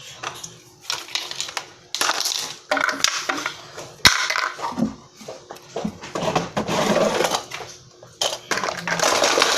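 Hard objects being handled, clattering and scraping in irregular bursts, with one sharp knock about four seconds in.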